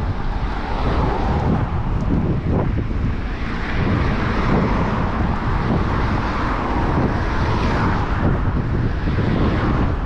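Wind buffeting the microphone of a camera on a moving bicycle, mixed with steady city traffic noise that swells through the middle.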